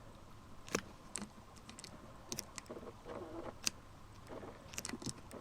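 A scatter of irregular light clicks and taps, a few sharper ones standing out, over a faint steady background.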